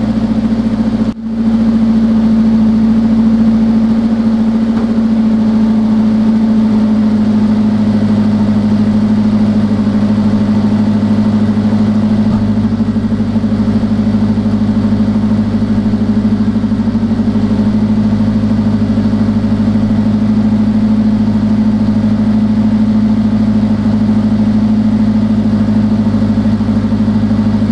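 1982 Datsun 210's four-cylinder engine idling steadily after an alternator swap, running while its charging is checked. The sound breaks off for an instant about a second in.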